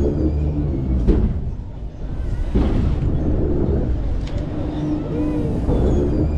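Rumble and wind buffeting on the microphone while riding a swinging pirate ship ride, surging over and over, with faint tones from ride music mixed in.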